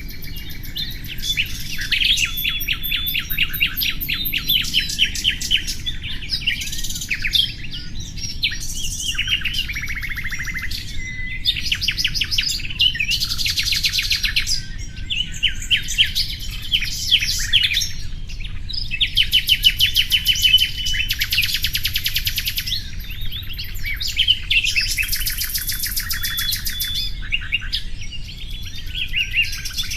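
Common nightingale singing: phrase after phrase of rapid repeated notes and trills, each a second or two long and separated by short pauses, over a steady low rumble of background noise.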